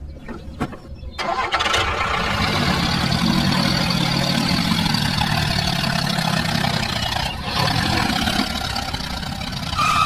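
A small motor starts about a second in and runs steadily, with a brief dip about seven seconds in.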